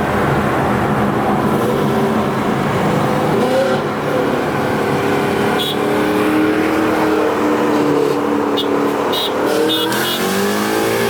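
Car engine running while driving at low, steady revs, its pitch drifting slowly up and down and rising near the end, with a few short ticks in the middle.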